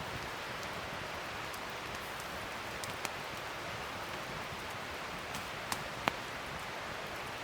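Wood fire burning with a steady hiss and a few sharp crackling pops, three of them standing out, the loudest about six seconds in.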